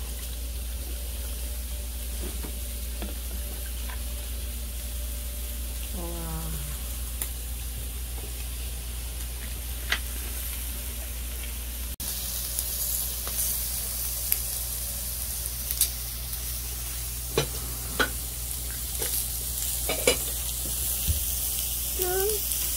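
Steady sizzling hiss over a low hum, with scattered sharp clicks and light knocks in the second half and brief voice sounds near the end.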